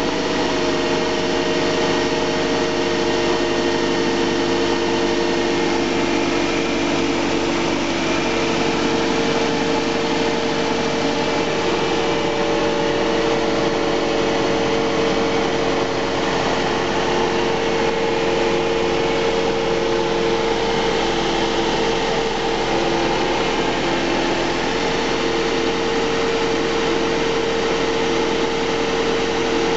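2005 Mazda 6 2.0-litre DOHC 16-valve inline-four petrol engine (code LFH1) idling at a steady speed.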